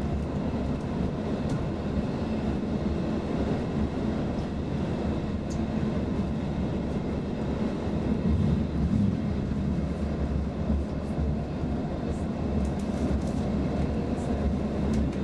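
Inside a Roslagsbanan X10p narrow-gauge electric multiple unit running at speed: steady rumble of wheels on rail, with a few faint ticks.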